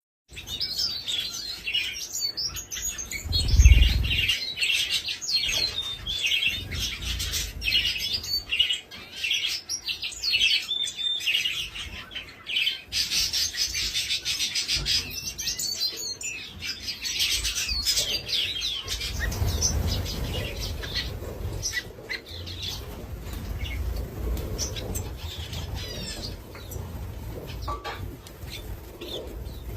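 Several small birds chirping and singing in quick, overlapping phrases, busiest in the first half and sparser later. A low rumble comes and goes underneath, loudest about four seconds in.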